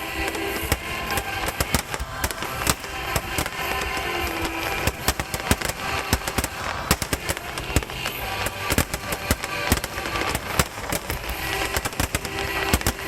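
Aerial fireworks bursting in a rapid, dense barrage of sharp bangs and crackles. Music plays along with the show underneath.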